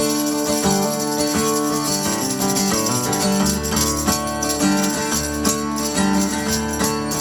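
Live band music with guitar and jingly percussion, a low bass line coming in about three and a half seconds in.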